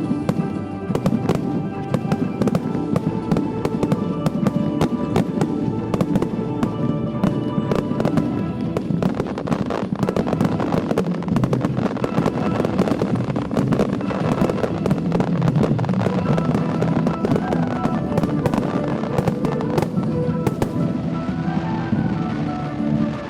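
A rapid barrage of fireworks going off, many bursts and crackles in quick succession, over music with sustained tones. The bursts thin out near the end.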